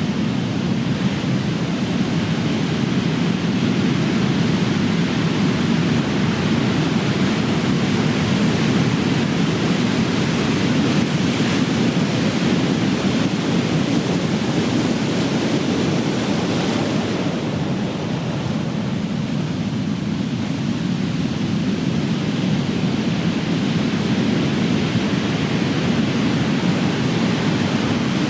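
Ocean surf: big waves breaking and washing in a continuous rumbling roar, swelling slightly partway through.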